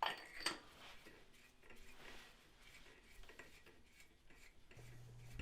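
Faint handling of small metal tools: two sharp clicks about half a second apart at the start, then a few quiet light ticks and rustles.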